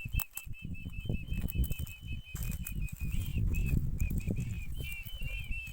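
A small bird calling in a fast, steady series of short high chirps, about five a second, joined near the end by a second overlapping series, over a low irregular rumbling noise.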